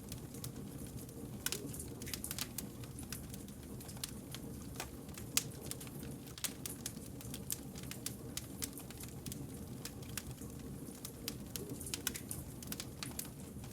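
Burning wood fire crackling, with frequent irregular sharp pops and snaps over a low steady rumble of the flames; the sharpest pop comes about five seconds in.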